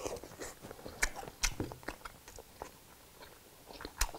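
Close mouth sounds of a person chewing a mouthful of shrimp: irregular wet smacks and small clicks, with a few sharper ones about a second in and again just before the end.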